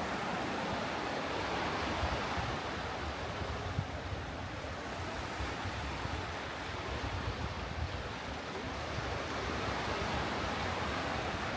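Waves washing onto a sandy beach in a steady wash of surf, with gusts of wind buffeting the microphone.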